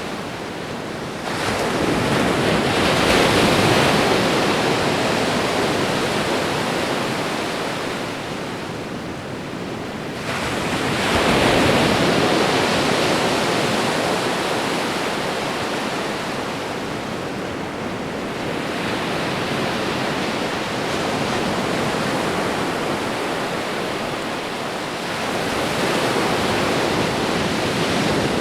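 Ocean waves breaking and washing on a shore: a steady surf hiss that swells as a wave breaks, about a second in and again around ten seconds in, then eases off, with smaller swells later on.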